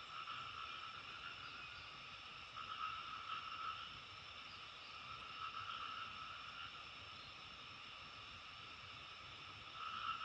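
Frogs calling in chorus, a steady layered trilling that swells in louder bouts every couple of seconds.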